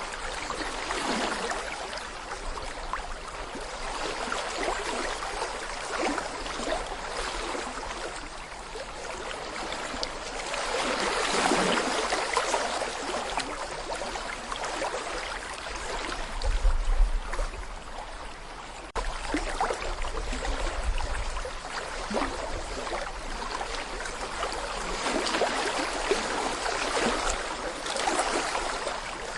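Small brook babbling over stones: shallow running water gurgling and splashing steadily, swelling and easing in strength. A low rumble comes in about the middle for a few seconds.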